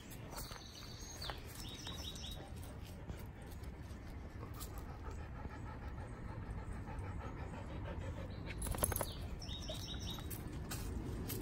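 A songbird singing a short phrase of quick repeated high notes, once about half a second in and again near the end, over a steady low rumble. A brief burst of rustling clicks comes about nine seconds in.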